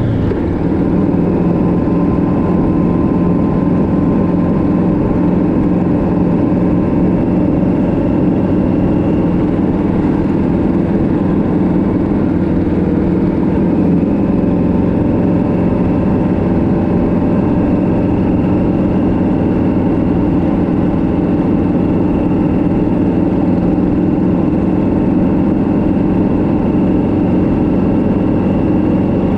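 Vehicle engine running steadily at road speed, with road noise. Its note shifts right at the start, then holds even throughout.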